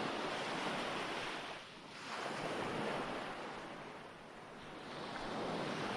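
Recorded ocean waves: surf washing in and drawing back, swelling and fading twice, used as a sleep soundtrack.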